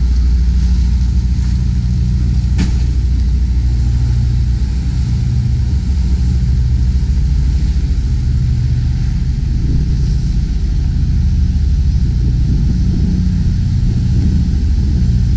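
Semi tractor's diesel engine running with a steady low rumble as the truck moves at low speed, with a single sharp click about two and a half seconds in.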